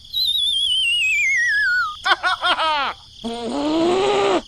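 Edited-in cartoon sound effects: a wobbling whistle sliding steadily down in pitch, then a quick run of bouncy chirping swoops, then a longer tone that bends up and back down.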